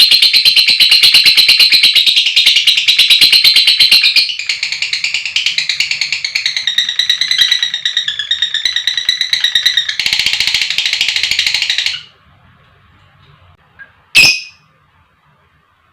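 Lovebird chattering in a long, fast, high-pitched trill ("ngekek panjang"), shifting to varied chirps about four seconds in, going back to fast chatter and then stopping abruptly. About two seconds later comes one sharp call.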